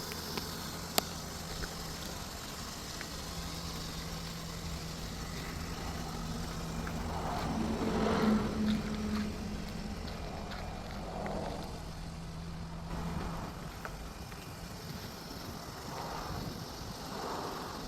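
Motor-vehicle sound: a steady low hum, with several louder passes that swell and fade like passing traffic, and a single sharp click about a second in.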